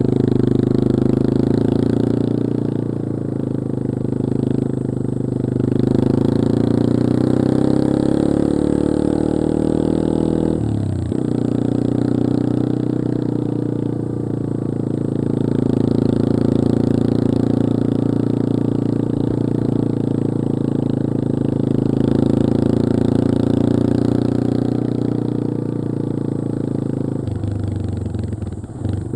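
Yamaha XT225 Serow's air-cooled single-cylinder four-stroke engine running steadily under way. Its note breaks and dips briefly about ten seconds in and again near the end.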